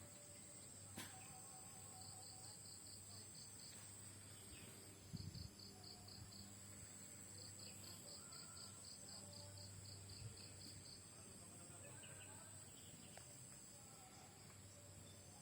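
Faint insect chirping outdoors: three trains of rapid high pulses, about eight a second, each lasting one to three seconds, over a steady high-pitched insect whine and a low hum.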